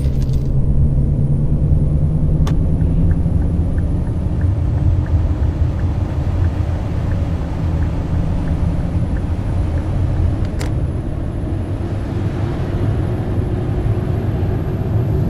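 Scania K420 double-decker coach running, a steady low engine and road rumble, with faint regular ticking for a few seconds near the start.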